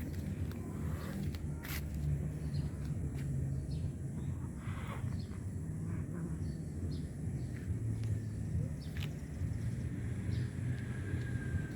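Steady low outdoor rumble with a few faint clicks and no clear foreground sound.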